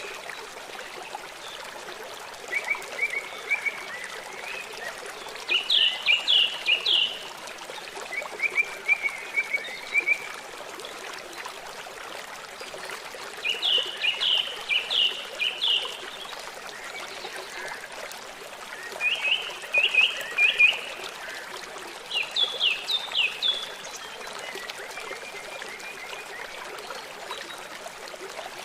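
Steady rush of flowing river water, with a bird calling above it in short phrases of quick repeated chirps that come back every few seconds.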